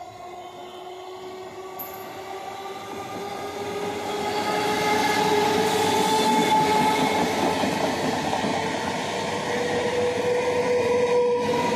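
Electric multiple unit local train passing close along the platform, its wheels rumbling on the rails. It grows louder over the first five seconds or so, and several steady whining tones run over the rumble.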